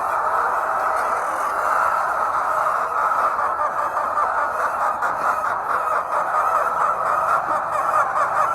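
Steady, dense din of a large flock of hens clucking and calling together.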